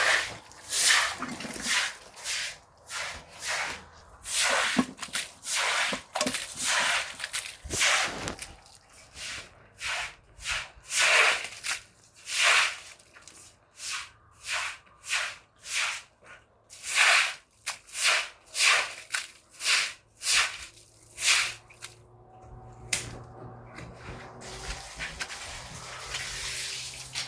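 Cloth scrubbing a surface in repeated back-and-forth strokes, about one or two strokes a second. The strokes stop a few seconds before the end, leaving a fainter steady hiss.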